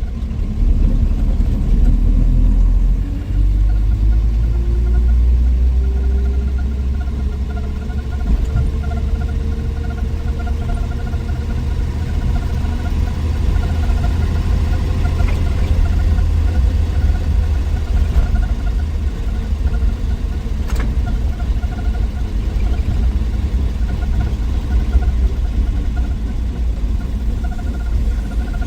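1963 Willys Wagon's Tornado 230 overhead-cam inline-six engine under way with a low rumble, its pitch rising over the first several seconds as the wagon picks up speed, then holding steady at cruise.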